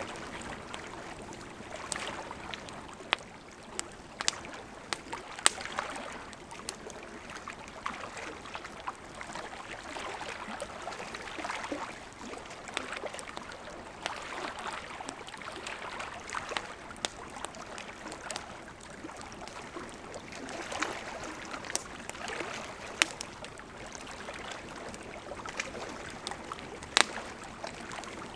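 Wood campfire burning: a steady soft hiss with frequent irregular crackles and sharp pops of burning wood, a few pops much louder than the rest.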